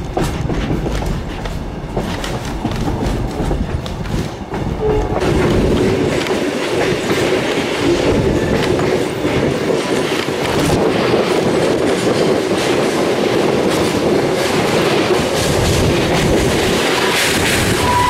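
Passenger train carriages running on the track, wheels clattering over rail joints, louder from about five seconds in, with a brief high wheel squeal near the end.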